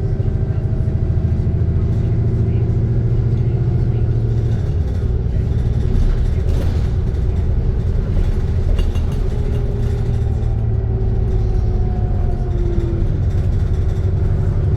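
Alexander Dennis Enviro 400 double-decker bus on a Trident II chassis, its diesel engine running with a steady low drone that changes note about four and a half seconds in, alongside higher whining tones that drift slightly in pitch.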